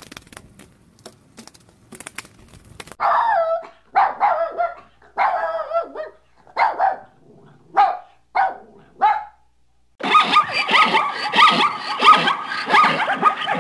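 Pomeranian dog giving a run of about seven short, high barks, each falling in pitch. Faint crackling comes before them. About ten seconds in, a loud, continuous, rapidly pulsing rasp from another animal takes over.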